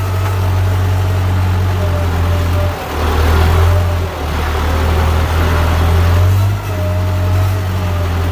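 Kubota tractor's diesel engine running steadily under load while ploughing, with brief dips in level about three, four and six and a half seconds in.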